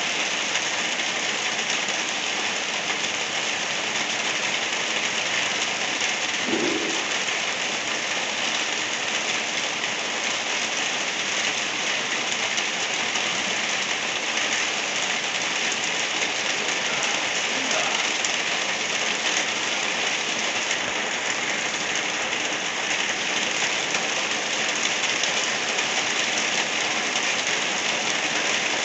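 Light rain falling steadily, an even hiss with no pauses.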